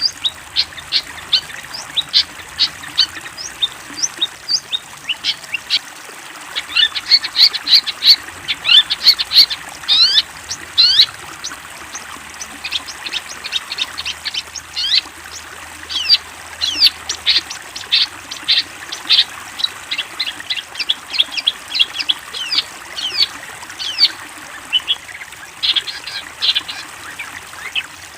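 Long-tailed shrike (cendet) singing: a fast, unbroken run of sharp, high chattering notes, several a second.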